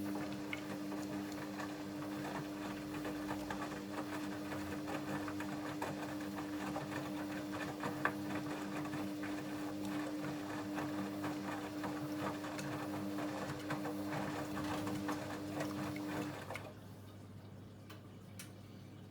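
Hoover Dynamic Next front-loading washing machine running: a steady motor hum under a busy rattling, sloshing texture that cuts off about sixteen seconds in, leaving a quieter background.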